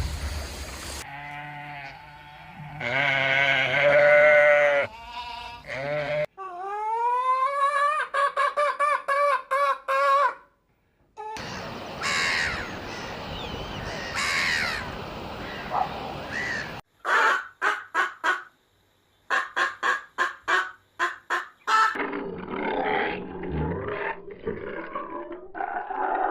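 A run of farm animal calls from several animals in turn, cut one after another: pitched, bleat-like calls, then a series of rapid short calls, then a mix of noisier calls.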